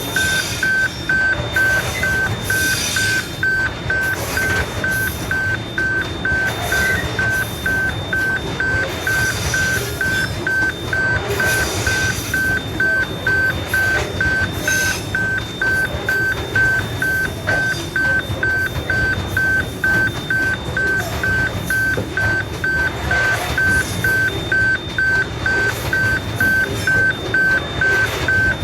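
Railway level crossing warning bell sounding a high electronic ding over and over at a steady, even pace, with a steady low rumble underneath.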